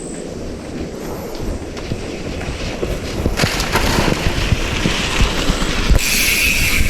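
Mountain bike rolling over a rough dirt trail: tyre rumble with rattling and clatter from the bike, and wind on the microphone. It grows louder and rougher about three seconds in.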